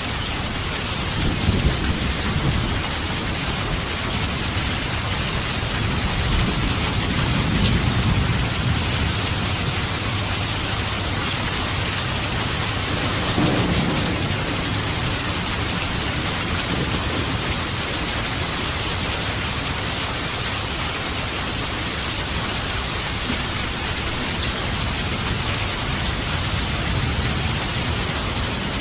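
Steady heavy rain, with low rolls of thunder rumbling about a second in, around eight seconds in and around thirteen seconds in.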